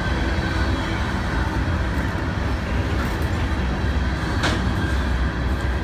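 Empty covered hopper cars of a freight train rolling past: a steady low rumble of steel wheels on rail, with one sharp click about four and a half seconds in.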